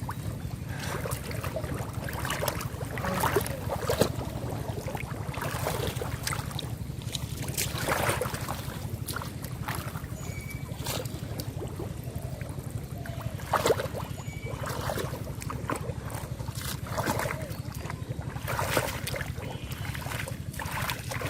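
Water splashing and sloshing now and then as hands work in shallow river water, over a steady low rumble.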